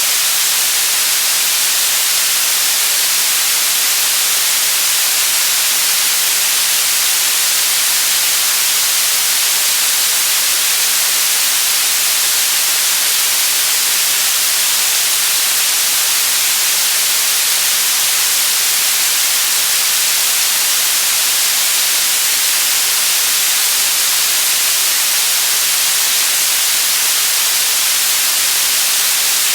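Steady, loud white noise: an even, unchanging hiss, brightest in the upper range.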